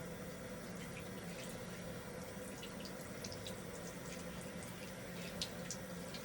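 Tap water running steadily into a sink as soapy hands are rinsed under it, with small scattered splashes and drips.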